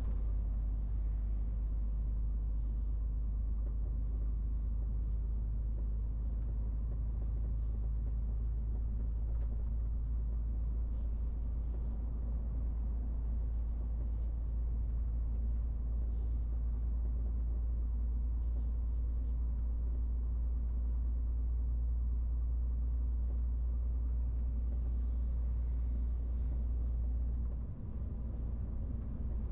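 MAN TGX 18.470 truck's inline-six diesel engine running steadily while driving, a constant low rumble with road noise, briefly dipping near the end.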